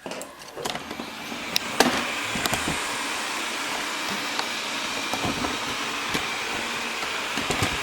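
Wyze robot vacuum starting its cleaning run: the motor and brushes switch on suddenly and build over about two seconds to a steady whirring, with scattered clicks and knocks in the first couple of seconds.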